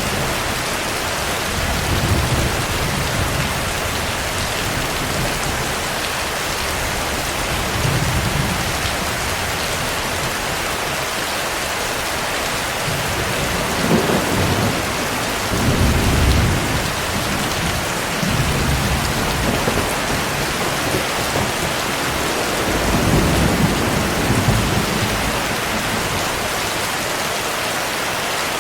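Steady heavy rain with rolls of thunder rumbling low several times, the strongest about halfway through.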